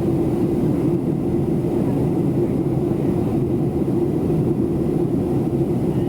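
Steady in-cabin drone of a Boeing 737-700 in flight: the noise of its CFM56-7B turbofan engines and the airflow over the fuselage, with a constant low hum.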